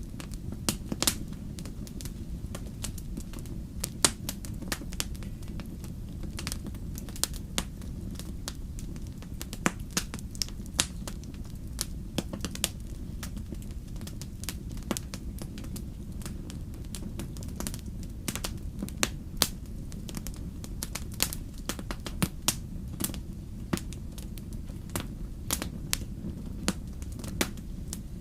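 Wood fire in a fireplace crackling, with sharp pops at irregular intervals, some much louder than the rest, over a steady low rumble.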